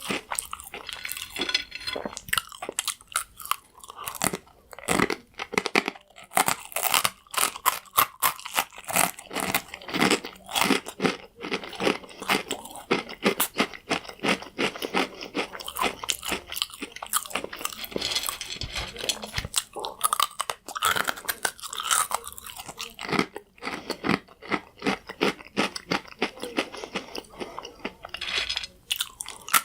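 Crunchy croutons being bitten and chewed close to the microphone: dense, irregular crackling crunches.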